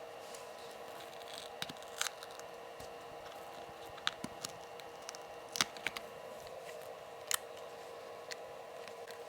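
Scattered small clicks and crackles of a cracked iPad screen's glass being pried up off the frame, about eight in all with the sharpest near 2, 5.5 and 7.5 seconds in, over a faint steady hum.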